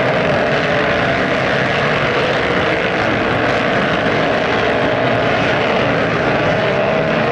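Motocross bike engines running at once in a loud, steady drone with no breaks.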